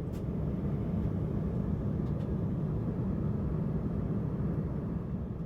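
Steady low rumble of a vehicle in motion, an even drone with no distinct events.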